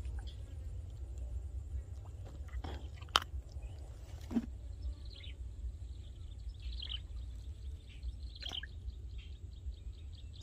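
Open-air ambience: a bird gives short falling chirps every second or two over a low steady rumble, with a sharp click about three seconds in.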